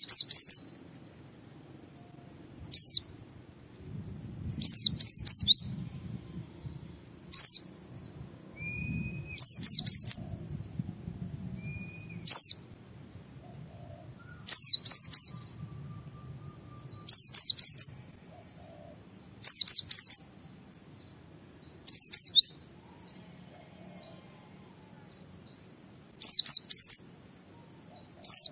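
A white-eye (pleci) singing a string of short, high chirping phrases. Each phrase is a quick run of downward-sliding notes, and one comes every couple of seconds. A couple of brief, lower single whistles fall between them.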